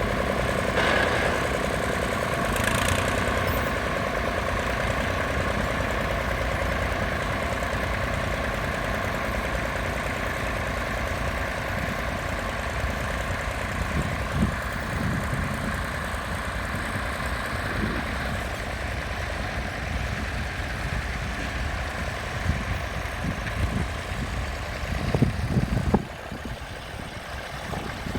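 Tractor engine running steadily, its level dropping suddenly near the end.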